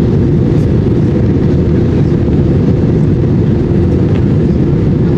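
Airbus A320 in flight: a loud, steady noise of jet engines and rushing air, with a steady hum running through it.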